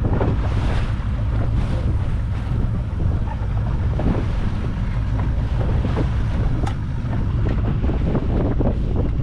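Wind buffeting the microphone, a steady low rumble, with small knocks and clicks scattered through it.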